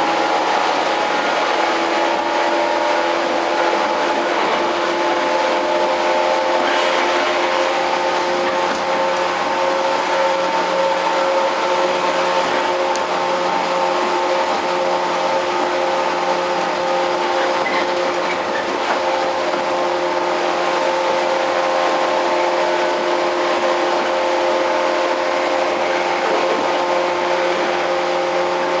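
Running sound inside a JR 115 series electric multiple unit motor car (MoHa 114). Its traction motors and gears give a steady whine of several level tones over the rumble of wheels on rail, at an even speed.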